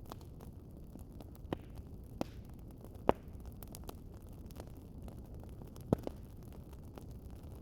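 Wood fire crackling in a fireplace: a steady low rumble with many faint ticks and four sharp pops, the loudest about three seconds in.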